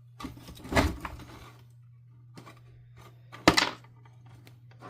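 Plastic housing parts of a vacuum power nozzle knocking and clacking as they are handled during disassembly: a rattle of knocks about a second in and one sharp clack about three and a half seconds in.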